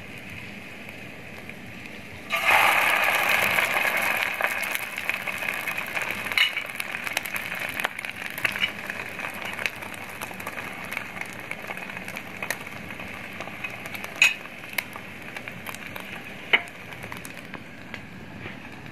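An egg-coated shami kebab going into hot melted beef fat in a pan: a sudden loud sizzle about two seconds in, then a steady crackling frying sizzle that gradually quietens, with a few sharp clicks.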